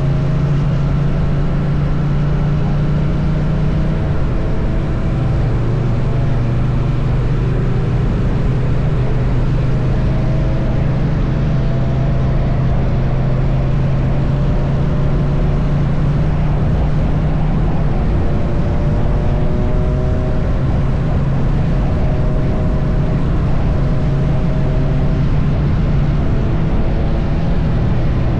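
Triumph Bonneville T100's parallel-twin engine running steadily at cruising speed, with heavy wind rush over the microphone.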